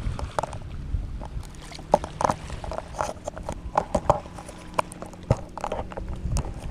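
Irregular knocks, clicks and bumps of things being handled on a fishing kayak, some with a short hollow ring.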